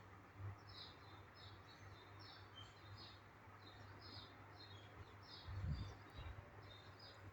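Faint, repeated short high chirps of a small bird, about two a second. A brief low thump comes about five and a half seconds in.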